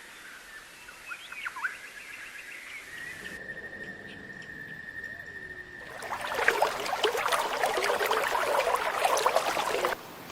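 Wild birds calling: a few short falling chirps, then a steady high tone, then from about six seconds in a loud, dense chorus of many overlapping calls that cuts off abruptly near the end.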